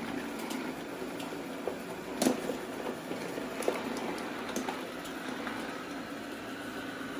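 Robot vacuum running with a steady motor-and-brush hum, clacking and knocking several times as it climbs over extension cords; the loudest knock comes about two seconds in.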